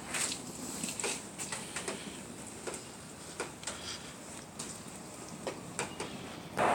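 Faint, irregular clicks and taps, a few each second, over a low steady hiss.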